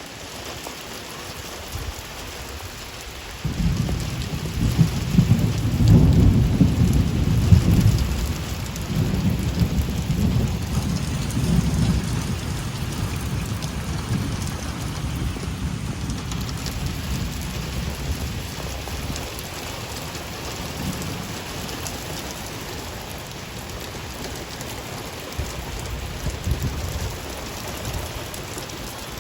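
Steady rain falling, with a long roll of thunder that breaks in a few seconds in, is loudest soon after and slowly rumbles away.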